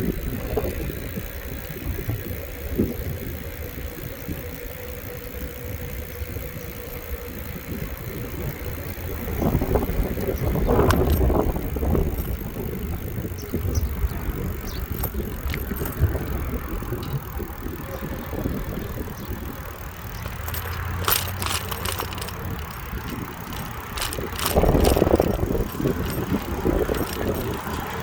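Bicycle ride on a road: steady wind rumble on the microphone and road noise. It swells louder twice, about ten and twenty-five seconds in, with a run of sharp rattling clicks near the end.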